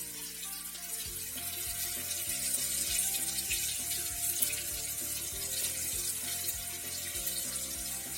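Marinated small Indian mackerel frying in hot oil in a pan: a steady sizzling hiss with small pops, over background music.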